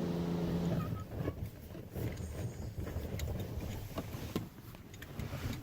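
Automatic car wash machinery heard from inside the car: a steady hum that cuts off about a second in, leaving a low rumble with scattered ticks and knocks as the spray cycle ends.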